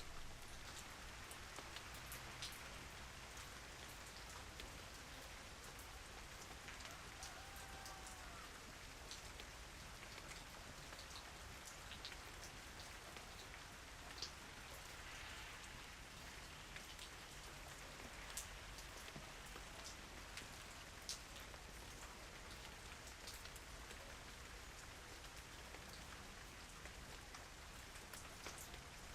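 Steady, soft rain, with single drops heard as scattered sharp ticks on a surface.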